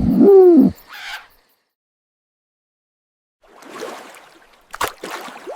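An owl hoots once, a single pitched call that drops in pitch at its end. After a pause comes a softer rustling noise with one sharp click.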